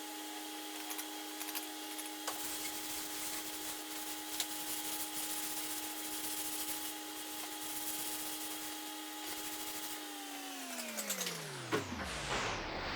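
A small electric motor runs at a steady hum with a hiss and occasional light clicks, then is switched off about ten seconds in and winds down, its pitch falling away over a couple of seconds.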